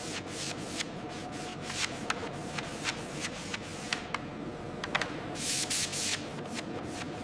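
Scattered light clicks and taps over a low hiss, with one short burst of spraying hiss about five seconds in.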